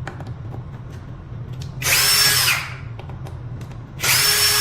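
Power drill/driver with a hex bit, run in two short bursts with a steady motor whine, loosening the hex screws on an electric scooter's steering-column stopper.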